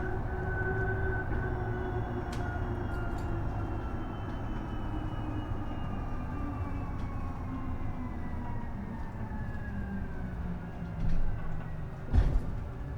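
Isuzu Erga EV electric bus running, its electric drive whine falling slowly in pitch as the bus slows, over a steady low road rumble. A couple of thumps come near the end.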